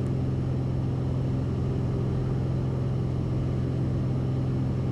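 Cessna 172RG's four-cylinder Lycoming O-360 engine and propeller at full climb power, heard from inside the cabin: a steady drone with a strong low hum that does not change.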